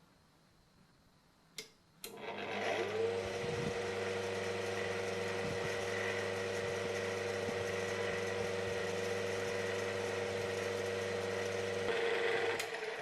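Restored 1920s Marelli electric table fan switched on with a click. Its motor hums and spins up, rising in pitch for about a second, then runs steadily. Near the end it is switched off with another click and starts to wind down.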